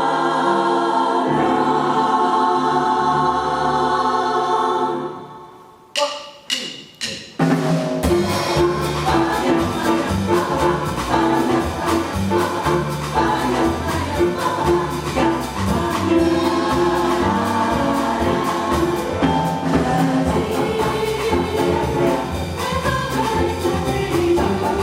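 Jazz chorus singing a sustained chord over piano and bass, fading out about five seconds in; then four sharp accented hits from the band, after which the choir and rhythm section (piano, bass, drums) break into a driving samba groove.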